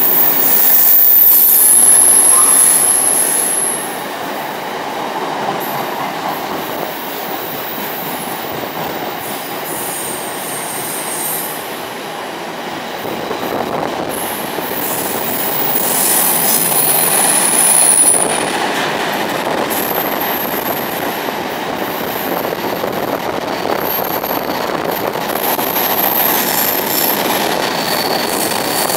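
Freight train of tank wagons passing through a station at steady speed: a continuous rumble of wheels on rail, loudest a second or two in, with thin high-pitched wheel squeals coming and going.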